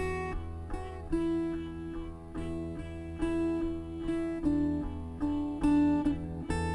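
Acoustic guitar music: a strummed and plucked chord pattern, with a new chord or note about every half second to second, each left to ring.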